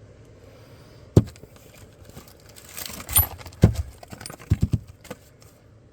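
Sharp knocks and clicks from drive shaft parts being handled: one about a second in, a short rustle and a knock past the middle, then a quick run of three or four knocks near the end.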